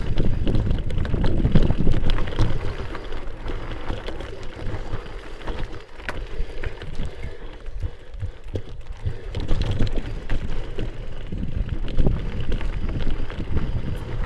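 Wind buffeting an action camera's microphone while a bicycle rolls over a rough dirt trail, with scattered clicks and rattles from the bike.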